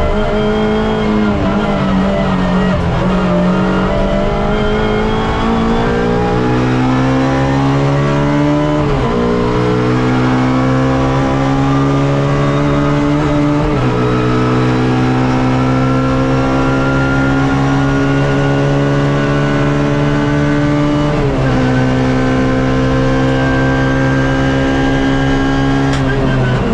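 Suzuki Swift race car engine heard from inside the car, accelerating hard: its pitch climbs steadily through each gear and drops sharply at three upshifts, about 9, 14 and 21 seconds in.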